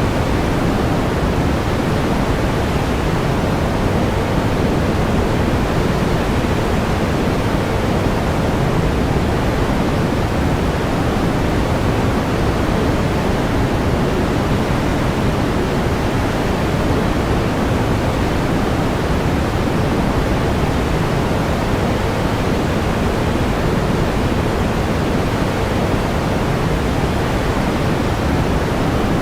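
Pink noise: a steady, even hiss weighted toward the low end, with no change.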